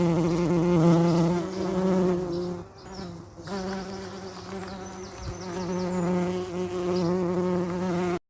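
A honeybee buzzing steadily in flight, fading briefly about three seconds in and then coming back.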